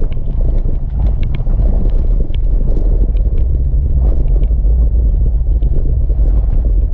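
Jeep WJ Grand Cherokee engine and drivetrain working under load as it climbs small back-to-back rock ledges: a steady, loud low rumble with scattered short clicks and knocks.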